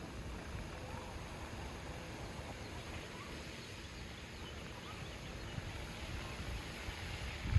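Outdoor ambience: a steady low wind rumble on the microphone with faint, scattered bird chirps, and a brief thump near the end.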